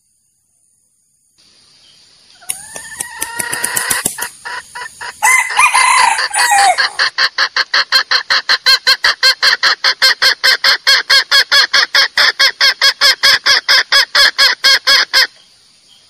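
Junglefowl calling: crow-like calls a few seconds in, followed by a long run of fast, even clucks, about five a second, that stops abruptly near the end.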